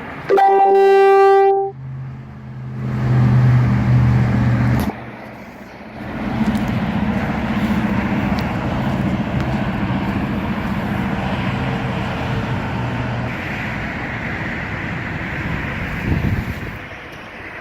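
A horn sounds once for about a second and a half. An engine then runs, coming up a couple of times before settling to a steady hum.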